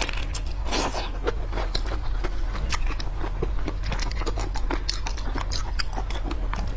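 Close-miked eating of seafood: biting and chewing, with many small sharp wet clicks.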